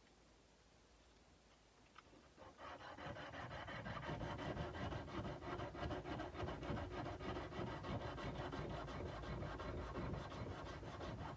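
Sandpaper being rubbed by hand along a steel kukri blade in quick, even back-and-forth strokes, starting about two and a half seconds in and stopping at the end.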